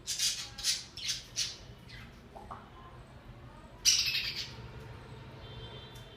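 Small pet parrots squawking: a run of short harsh squawks, then a louder, longer squawk about four seconds in.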